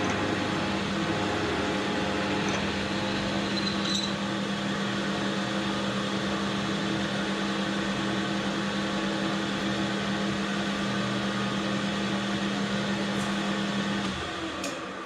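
Metal lathe running steadily while drilling out a 4140 steel spindle housing, a steady machine hum under the noise of the cut. The hum drops out about a second before the end.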